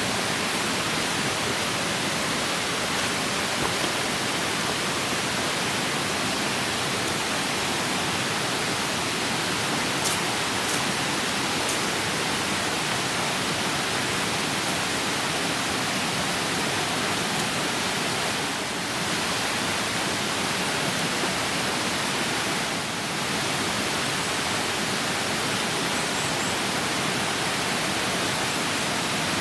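A mountain stream rushing steadily, with a few faint clicks about ten seconds in.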